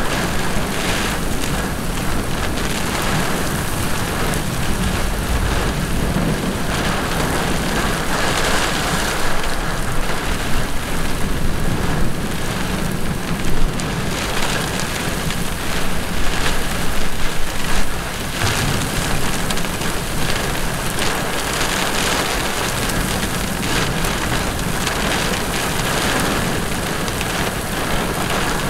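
Heavy rain pouring steadily onto a paved road and grass, a dense even hiss with a low rumble underneath, swelling louder for a few seconds about halfway through.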